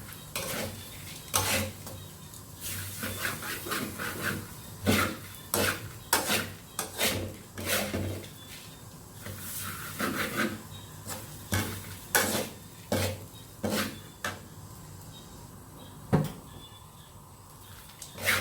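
Cooking utensil clinking and scraping against a pot and dishes in irregular strokes, roughly one a second, fewer near the end.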